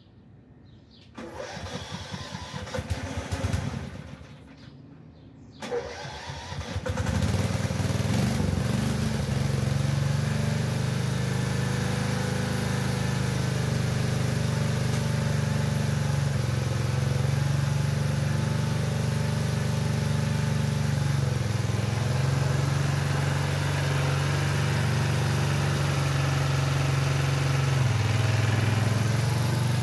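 Engine of an old Craftsman garden tractor being cranked by its starter, stopping, cranked again, and catching about seven seconds in, then running steadily, newly started after its carburetor was cleaned.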